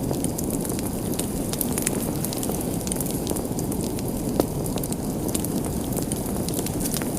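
Wood fire burning in a fireplace: a steady low rush of flames with frequent small crackles and one louder pop about four and a half seconds in.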